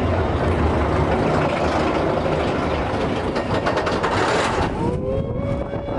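Expedition Everest roller coaster train running along its track: a loud, steady rumble and rush of noise. About five seconds in, high squeals slide up and down over it.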